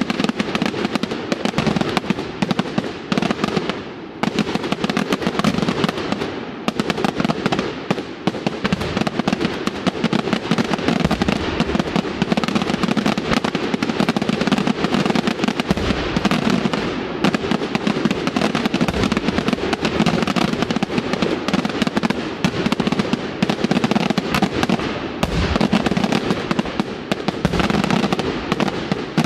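Daytime fireworks: an unbroken rapid-fire barrage of aerial bangs and crackles, too dense to pick out single reports, with a few heavier booms among them.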